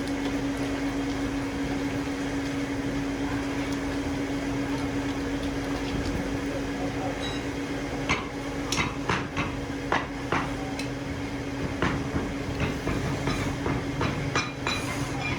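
Workshop machine running with a steady hum. From about halfway, irregular sharp metallic knocks and clinks, as of metal parts being handled or struck, join it.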